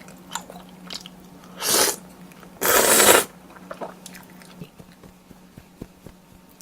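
Close-miked eating of tteokbokki with glass noodles: soft chewing and small mouth clicks, with two louder hissing bursts about two and three seconds in. A faint steady electrical hum lies underneath.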